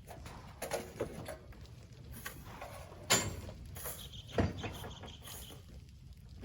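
Work noise from loading sand: a few irregular scrapes and knocks, the loudest about three seconds in. A thin high squeak is held for about a second and a half near the middle.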